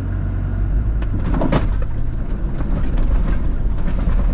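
4x4 engine running under load as it pulls another vehicle out on an elastic (kinetic) recovery strap, getting a little louder. There is a sharp click about a second in and a knock half a second later.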